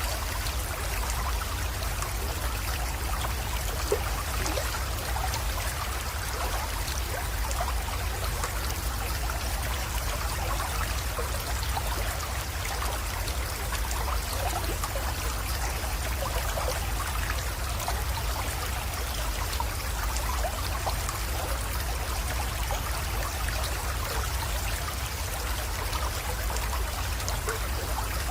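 Small creek trickling and splashing steadily, with many small quick water sounds over a constant low rumble.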